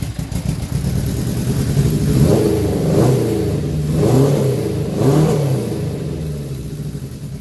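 1980 Suzuki GS550's air-cooled inline-four engine running loud and not yet warmed up, just after starting. The throttle is blipped several times in the middle so the revs rise and fall, then it settles to a steadier, lower run near the end.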